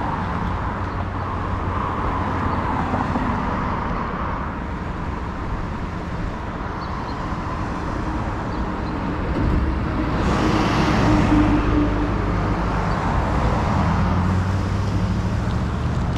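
Steady road traffic noise heard from a bicycle in town. About ten seconds in, a motor vehicle's engine grows louder as it comes close and passes.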